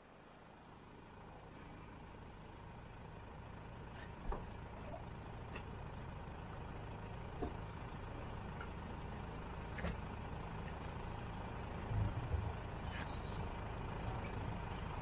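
A vehicle engine idling with a steady low rumble, with a few short clicks and clanks scattered through.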